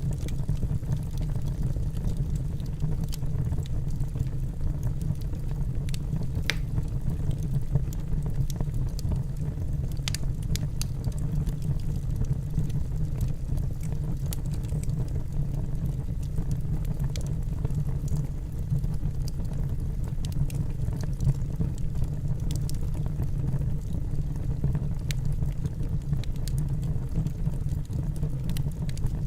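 Wood fire burning in a fireplace: a steady low rumble with scattered crackles and pops from the burning logs, a couple of them sharper, about six and ten seconds in.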